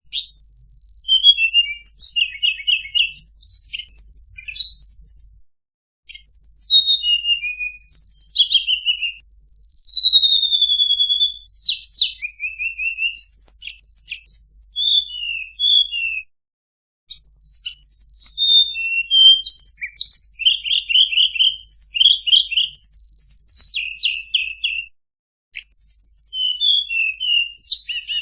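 Tledekan songbird singing a rapid, varied song of high chirps, short trills and whistled slurs, in phrases broken by brief pauses, as used for a masteran tutor recording.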